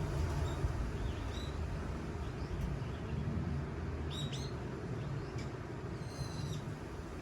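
Wind blowing with a steady low rush, with small birds chirping briefly over it: a few single high chirps, a quick pair about four seconds in, and a longer call around six seconds.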